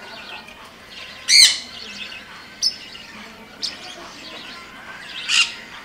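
Pet-shop birds chattering with many small chirps, and four sharp squawks standing out, the loudest about a second and a half in.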